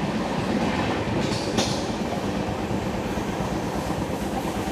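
Jan Shatabdi Express passenger coach running at speed, heard from its open doorway: a steady rumble of wheels on rail mixed with wind. A brief louder hiss comes about a second and a half in.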